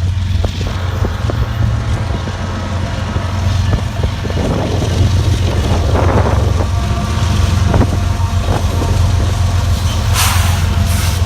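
Train running by with a steady low rumble and scattered clicks, wind buffeting the microphone; a short hiss comes near the end.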